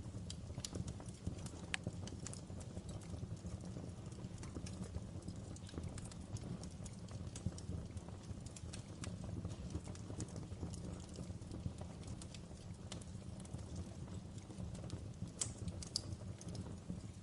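Fireplace fire crackling, with irregular sharp pops over a steady low rumble of burning.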